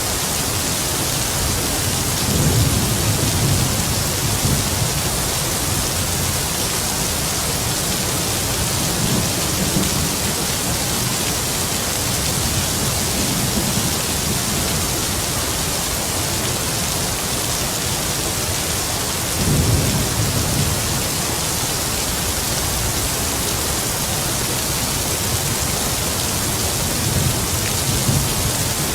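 Heavy rain falling in a steady hiss, with distant thunder rumbling low several times, loudest about two to four seconds in and again about twenty seconds in.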